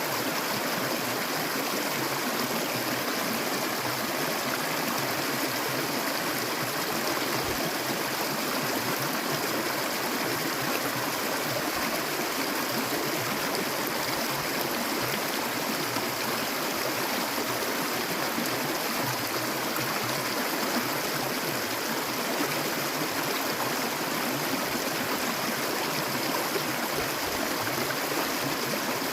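Clear stream water flowing steadily, a continuous rushing and gurgling.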